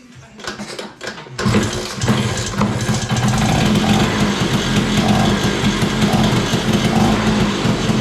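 LML scooter's two-stroke engine catching about a second and a half in and then running steadily.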